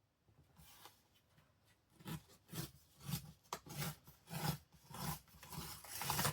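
Paper being worked by hand: a faint rustle early on, then a series of about eight short rasping strokes, roughly one every two-thirds of a second.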